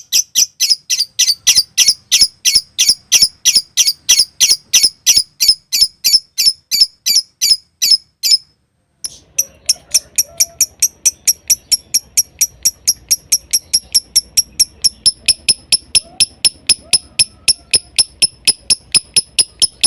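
Lovebird calling in the 'konslet' style: a long, unbroken string of sharp, high chirps at about five a second. It breaks off briefly about eight and a half seconds in, then resumes at an even pace.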